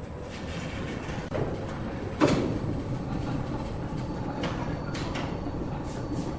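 Sawmill machinery running with a steady rumble, a loud knock about two seconds in, and a few lighter clacks near the end.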